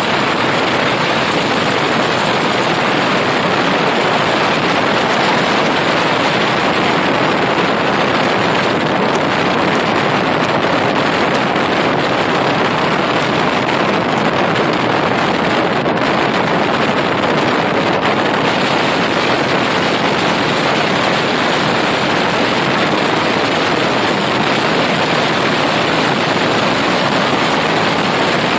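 Steady, loud rushing noise of wind and road noise from a moving vehicle, an even hiss with no breaks or changes.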